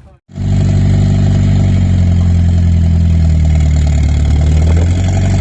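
Eagle Talon's turbocharged four-cylinder running loud and steady with no exhaust system fitted. The sound cuts in abruptly just after the start.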